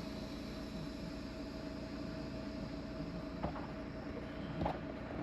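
Semi-truck engine idling, a steady low hum heard inside the cab, with two light clicks about three and a half and four and a half seconds in.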